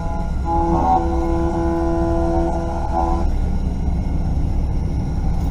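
A train horn sounding a chord of several steady tones in long blasts with short breaks, ending about three seconds in, over a steady low rumble.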